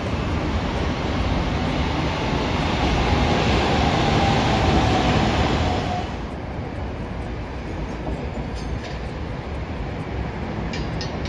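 A train running past: a steady rumble that builds to about five seconds in, with a faint whine under it, and drops away abruptly about a second later. A few light clicks follow near the end.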